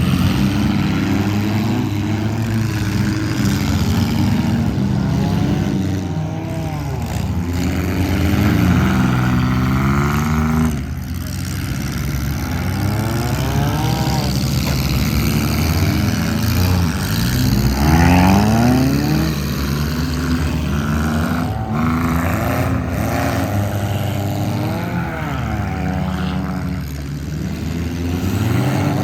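Several stripped-down demolition derby cars' engines running hard together, their pitch repeatedly climbing and falling as the drivers rev, accelerate and back off.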